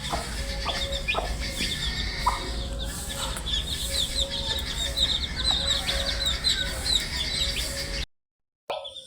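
A brood of baby chicks peeping continuously: many short, high chirps overlapping one another, over a steady low hum. The sound cuts out completely for about half a second near the end.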